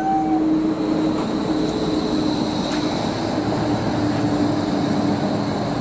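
Light-rail tram running, with a steady electric hum over a continuous rumble.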